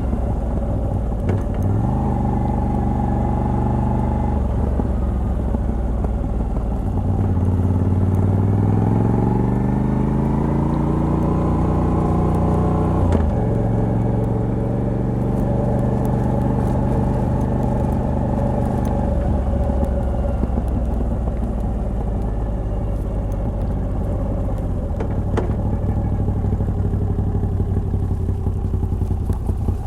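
Moto Guzzi V85TT's air-cooled transverse V-twin running through its stock exhaust with a Mistral decat pipe while riding: the engine pulls up in pitch from about seven seconds in, drops sharply at a gear change about thirteen seconds in, then runs steady and eases off to a lower note.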